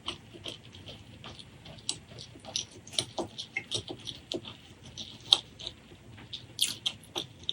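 Close-miked eating sounds: irregular wet clicks and smacks of chewing, several a second, with a few sharper ones.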